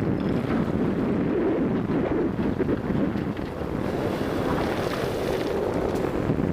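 Low, steady rumble of a Komatsu PC200 hydraulic excavator's diesel engine working, mixed with wind buffeting the microphone.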